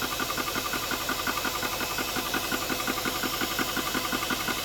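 ToAuto A3 PCP high-pressure air compressor running under load with a fast, even pulsing of its pump over a steady hiss. It is partway through filling a PCP air tank, a little over halfway there.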